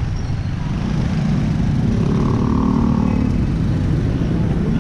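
Wind buffeting and road rumble on a helmet-mounted action camera during a ride, with an engine note swelling briefly about two seconds in.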